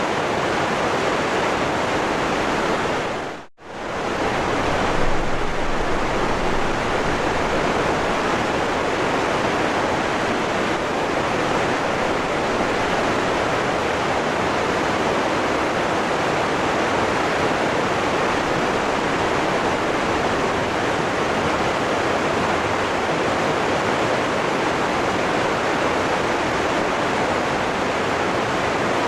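Waterfall rushing steadily, a dense even roar of falling water. The sound dips out almost to silence for a moment about three and a half seconds in, then comes straight back.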